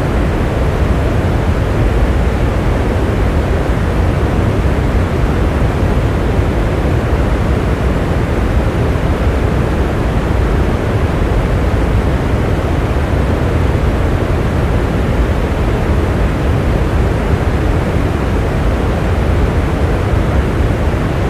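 Steady rain as one even, dense rush, weighted toward the low end rather than hissy, with no single drops or changes standing out.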